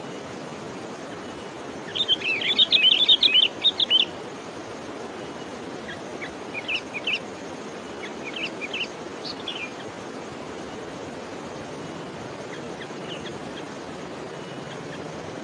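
A small songbird chirping in quick, rapid runs: a loud two-second burst about two seconds in, then fainter scattered chirps, over a steady outdoor hiss.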